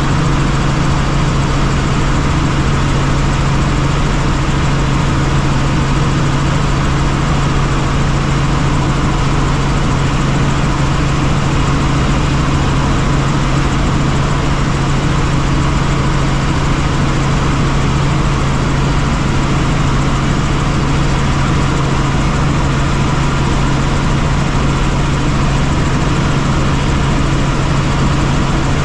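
Helicopter running steadily: a loud, constant drone with a strong low hum that holds the same pitch throughout.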